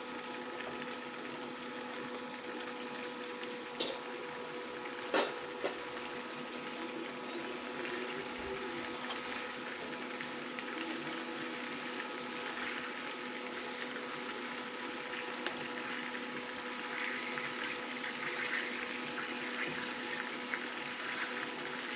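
Chicken pieces sizzling in hot oil in a karahi: a steady hiss with fine crackle that thickens in the second half, over a faint steady hum. Two or three sharp knocks about four and five seconds in as whole tomatoes go into the pan.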